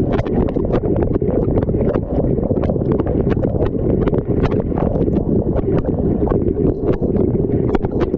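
Dishwasher wash cycle heard from inside the machine through a GoPro's waterproof housing: a steady, heavy rush of spray water with irregular sharp ticks of water and spray striking the case.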